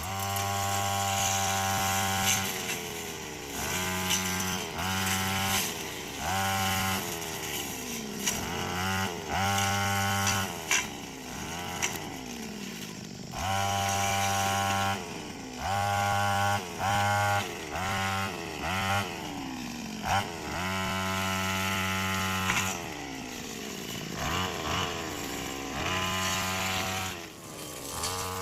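Chainsaw engine revved again and again in short bursts of one to two seconds, its pitch falling back toward idle after each burst.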